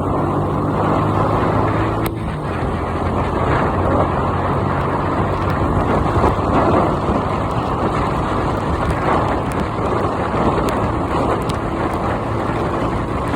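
Heavy rain falling, a steady, muffled rushing with little high end, over a low steady hum during the first two seconds.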